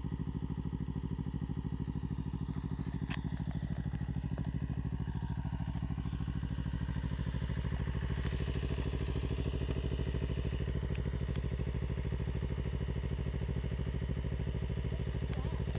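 Kawasaki Ninja 300's parallel-twin engine idling steadily, with a single click about three seconds in.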